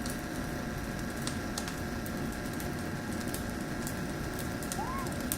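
Bonfire crackling with scattered sharp pops over a steady hiss and hum.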